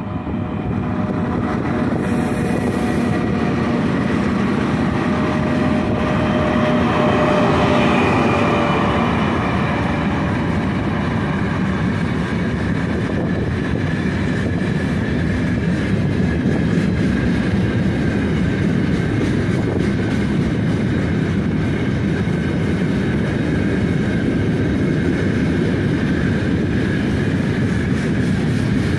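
Loaded freight train passing close at speed behind an ES5K "Ermak" electric locomotive: a steady rolling noise of wheels and wagons on the rails. It swells in the first second as the locomotive arrives, with a whine from the locomotive for the first several seconds.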